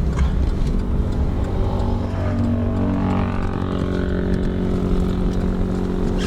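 Several quad ATV engines droning, their pitch wavering a little, over the low rumble of a car in motion.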